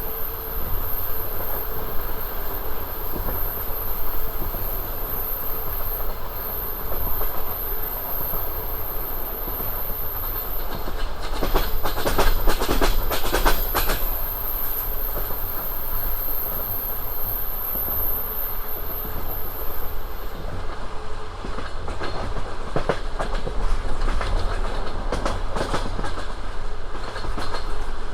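Passenger train running on the rails with a steady low rumble. Wheels clatter over rail joints in clusters of quick clicks, loudest about twelve seconds in and again in the last few seconds.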